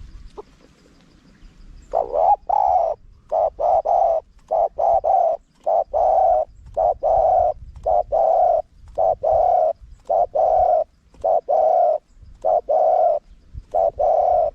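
Spotted dove cooing: after about two seconds of quiet, a long run of short, low coo notes in repeated phrases.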